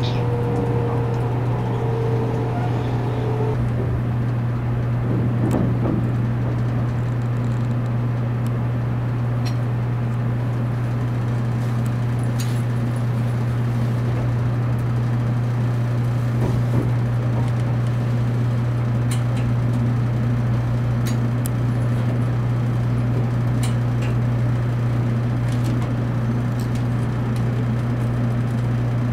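Cabin sound of a JR Kyushu 783-series limited-express electric train running: a steady low hum over a continuous rumble, with scattered faint clicks. A faint tone falls in pitch during the first few seconds.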